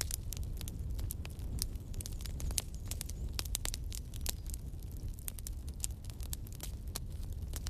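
Wood fire burning, with frequent sharp, irregular crackles and pops over a low, steady rumble of flame.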